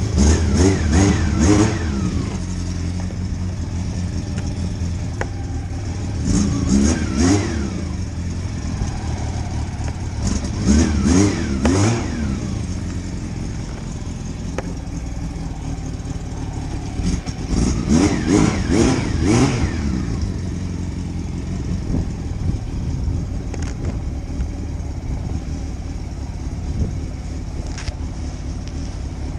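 Motorcycle engine running on the road, with four spells of acceleration where the revs climb and drop again as it shifts up through the gears, and steadier running between them.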